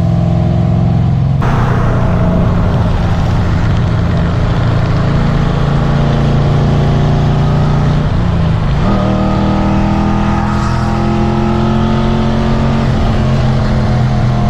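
Car engine running under load at speed, with loud wind and road noise that comes in suddenly about a second in. About nine seconds in the engine note steps up in pitch and then climbs slowly as the revs rise.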